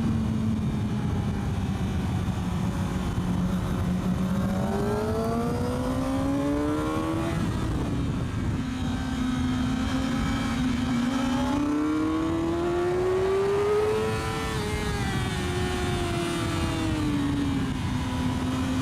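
Yamaha YZF-R6 inline-four engine heard from on board the motorcycle, its pitch rising and falling as the rider accelerates and rolls off through bends, with steady wind rush. The revs climb for several seconds in the first half and again, higher, just past the middle, then drop away.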